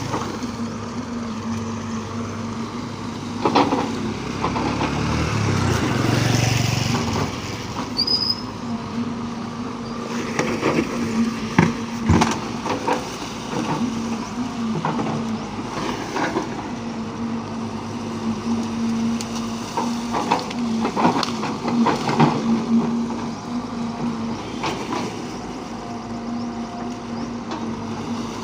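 An engine running steadily, with scattered knocks and clanks.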